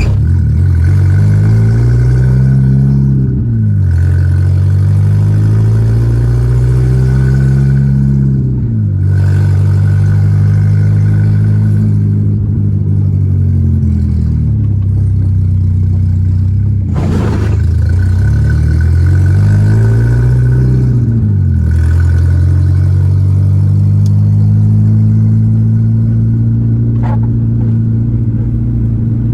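Volkswagen Gol G4 Rallye's four-cylinder engine pulling the car along. The engine note rises under acceleration and drops sharply at gear changes about three and a half, eight and a half and twenty-one seconds in, then holds steady while cruising. There is one short knock about halfway through.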